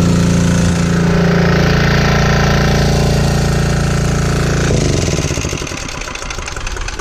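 Single-cylinder 196cc 168F air-cooled diesel generator engine running on vegetable oil, its steady knocking run giving way about five seconds in as the engine slows and dies: the fuel tank has run dry.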